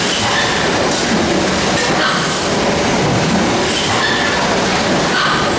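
Loud, steady running noise of a moving vehicle, like riding on rails, with faint short squeaks recurring every second or so. It is recorded as an abnormal noise.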